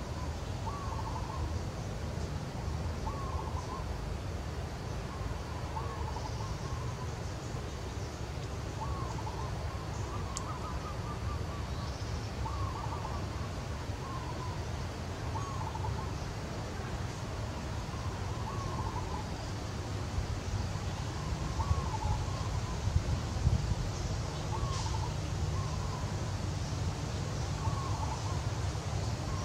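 A bird calling in the background: a short call repeated about every two seconds, over a steady low rumble.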